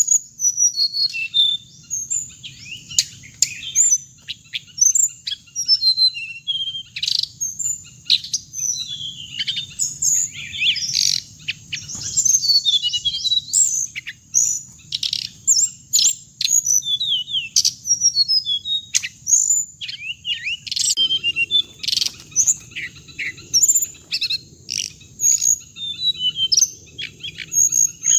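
Hồng hạnh birds (red avadavats) chirping and twittering: a busy, continuous stream of short, high, quick notes and little trills that overlap one another.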